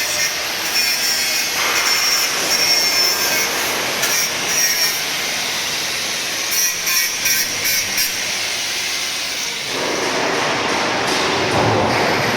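Poultry crate washing machine running: a loud, steady, noisy wash of machinery and water with a few sharp clatters in the middle. About ten seconds in, the sound turns lower and heavier.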